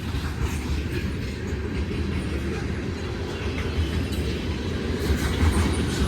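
Freight train of covered hopper grain cars rolling past: a steady low rumble of steel wheels on the rails with faint scattered clicks.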